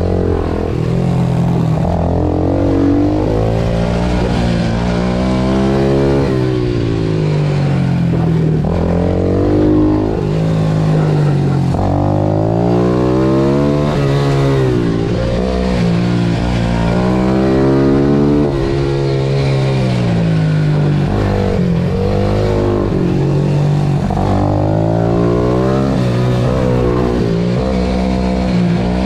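Pit bike engine at full racing revs, its pitch climbing and dropping again every few seconds as it accelerates out of corners, shifts and backs off into the next bend.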